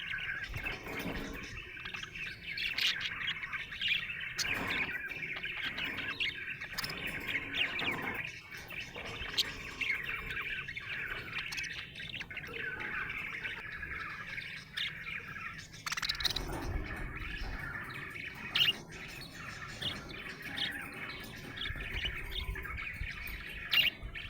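Budgerigar chattering: a steady stream of quick chirps and warbling notes, with occasional sharp clicks.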